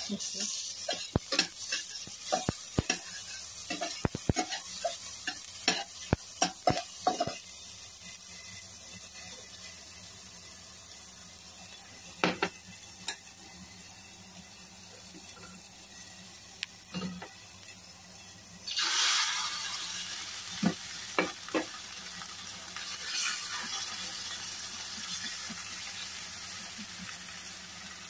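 Chopped aromatics sizzling in hot oil in a stainless steel pot, stirred with a metal spatula that clicks and scrapes against the pot, most busily in the first seven seconds. The sizzle swells louder twice in the second half.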